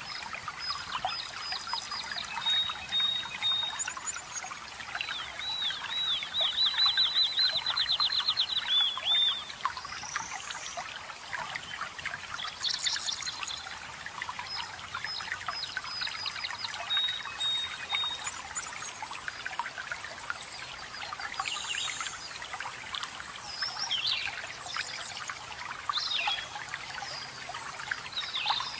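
Small forest birds singing over steadily trickling, splashing water. Their songs come as whistled notes, short repeated phrases and chirps, and the loudest is a rapid trill of repeated rising notes lasting about four seconds, a few seconds in.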